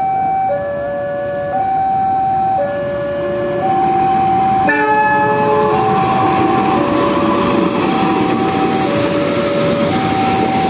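A two-tone warning siren alternates between a high and a low note, each held about a second. About halfway through, a short sharp blast is followed by the rising rumble of a passing train, which carries on under the siren.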